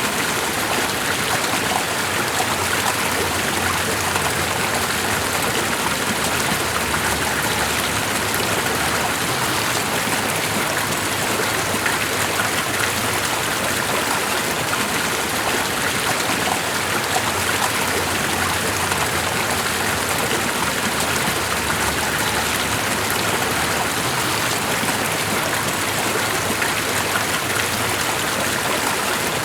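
Running water, a steady, unbroken wash with no change in level.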